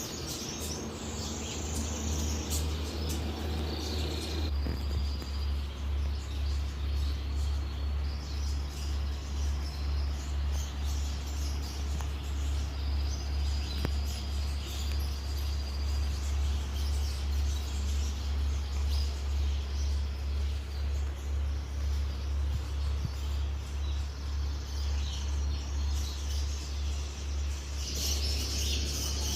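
Cage birds chirping and twittering over a strong low hum that throbs evenly about twice a second.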